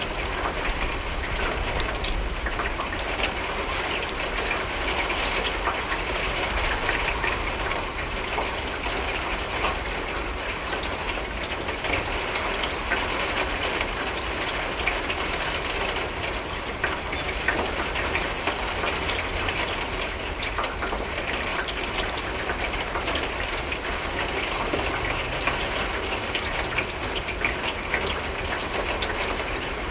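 Steady rain falling and drops pattering on a window, with a low rumble underneath.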